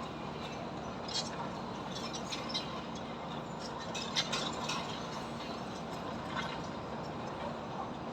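Construction-site ambience: a steady rumble of machinery and traffic with a low hum, broken by scattered sharp metallic clanks, a cluster of them about four seconds in.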